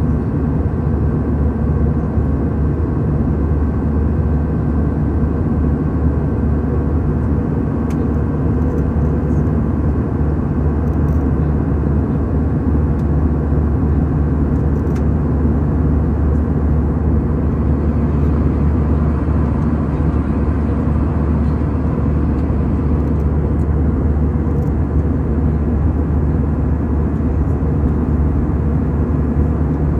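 Steady low drone of an airliner heard from inside the passenger cabin: engine and air noise, with a few faint whining tones above it.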